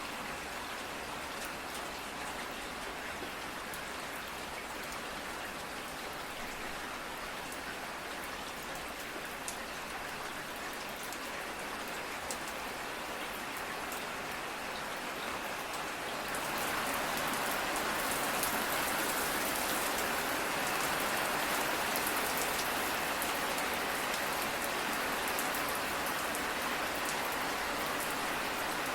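Steady rain falling, with fine drop patter on a surface; it grows heavier and louder a little past the middle.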